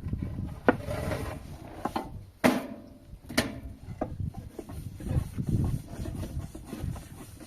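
A few sharp knocks or cracks, the loudest about two and a half seconds in, over a steady low rumble like wind on the microphone.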